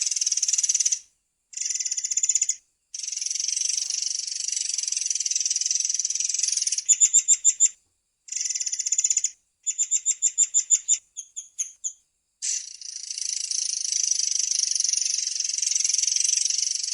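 Murai air songbird singing long, high trilled rolls, broken by short pauses, with two runs of separate loud chirps at about seven a second near the middle.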